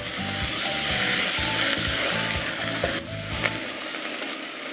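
Onion, tomato, capsicum and green chilli masala sizzling in oil in a pressure cooker while being stirred with a wooden spatula. The sizzle is loudest for the first three seconds and then eases off.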